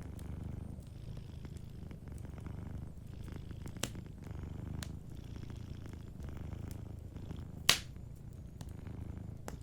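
Domestic cat purring steadily, rising and falling with each breath, over a crackling wood fire with faint ticks, a sharp snap about four seconds in and a loud pop near the end.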